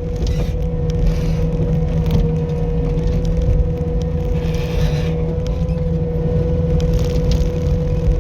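Skid steer loader's engine running steadily, with a steady whine over it and scattered scrapes and crackles.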